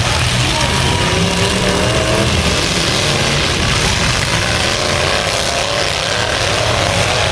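Engines of several full-size demolition derby pickup trucks revving and running hard together, their pitches wavering up and down.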